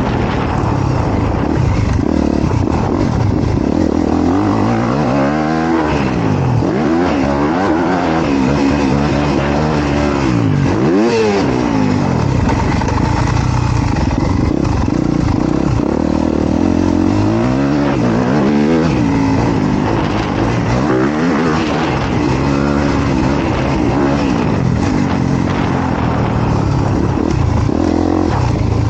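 Honda CRF250R dirt bike's single-cylinder four-stroke engine being ridden hard, revving up and down over and over as the throttle opens and closes. There is one sharp rev and drop about eleven seconds in.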